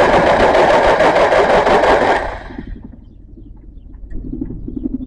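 Old International 2400 tractor engine being cranked over by its starter on starting fluid, a loud pulsing churn that stops about two seconds in without the engine catching.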